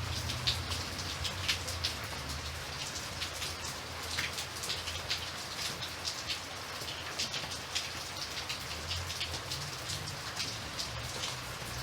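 Steady rain, with many separate drops striking a surface over a continuous hiss. A low hum runs underneath.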